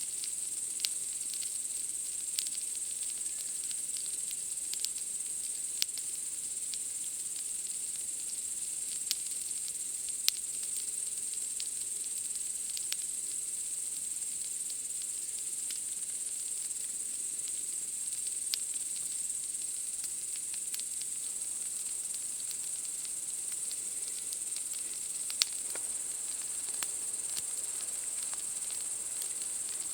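Steady high-pitched chirring of night insects, with sharp crackles and pops from a wood campfire every few seconds, two of them louder.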